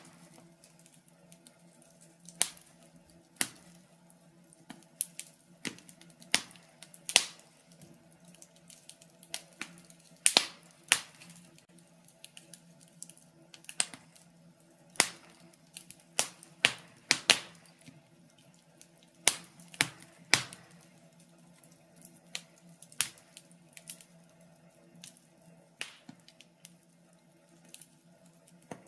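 Wood fire in a fireplace crackling, with irregular sharp pops and snaps, several louder ones around ten, seventeen and twenty seconds in, over a faint steady low hum.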